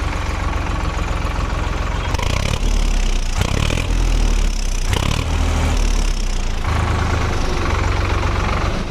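Tractor diesel engine running at a steady low rumble, over several short clips that change abruptly every second or so.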